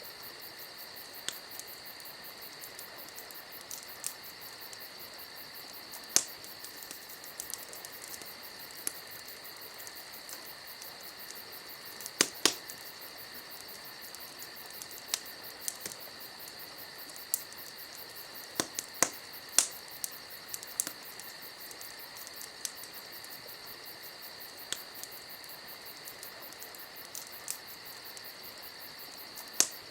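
Campfire crackling, with scattered sharp pops, the loudest around 6 s, 12 s, 19–20 s and near the end, over a steady, high-pitched chorus of crickets.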